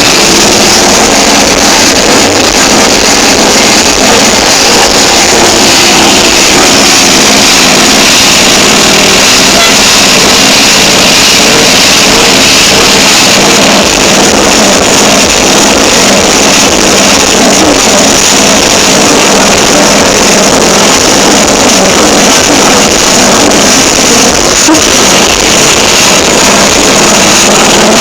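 Scania R730's V8 diesel engine running loud and steady, with little deep bass in the recording.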